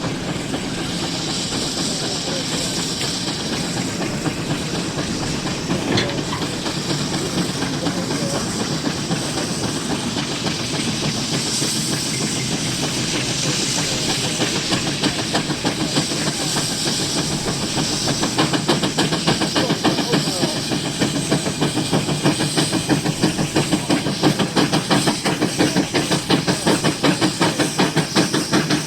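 Steam road locomotive working under load: a steady hiss of steam with rhythmic exhaust chuffs that become louder and more distinct over the second half, about three a second.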